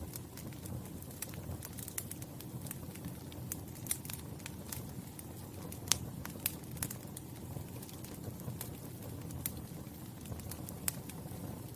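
Wood fire crackling: a steady low rumble of flames with frequent sharp pops and snaps, the loudest about six seconds in.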